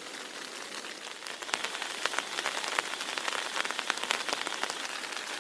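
Heavy rain falling, with many sharp drops tapping on a surface; the drops grow louder and denser about a second and a half in.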